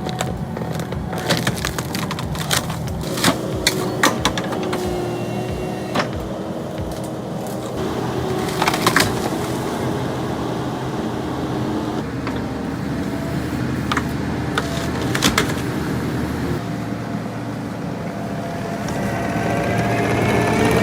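A tree shear on a loader cutting through trunks, with sharp cracks and splintering of wood at irregular moments, clustered in the first few seconds, around nine seconds and around fifteen seconds in. The machine's engine runs steadily underneath, and its pitch rises near the end.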